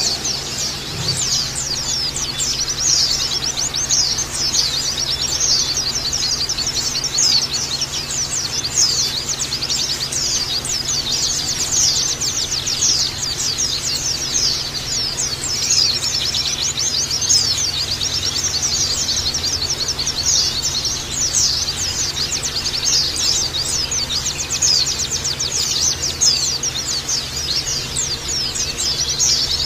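White-eyes (pleci) singing: rapid, high-pitched chirps and trills overlapping without a break.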